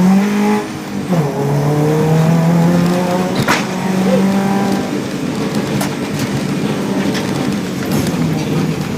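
Subaru 2.5-litre naturally aspirated flat-four revving hard as the rally car accelerates from a standing start. The revs drop at a gear change about a second in, then climb and hold high, with a few sharp knocks.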